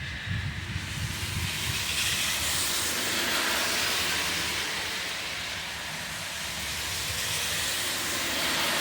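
Heavy thunderstorm rain and wind making a steady, loud rushing hiss that swells up at the start and holds, with a low rumble in the first second or so.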